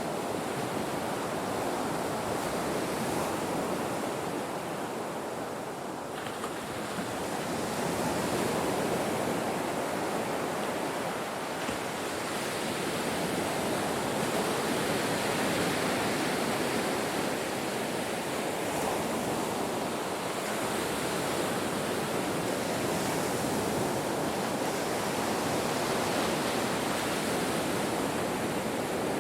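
Ocean waves breaking on a shore: a continuous wash of surf that swells and eases slowly, with a surge about seven seconds in.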